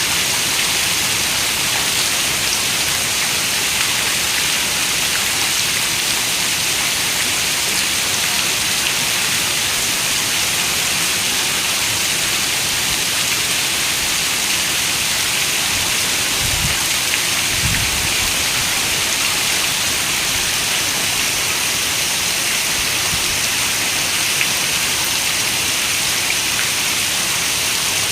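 Steady rain falling, an even hiss of raindrops. A brief low rumble comes in twice, about two-thirds of the way in.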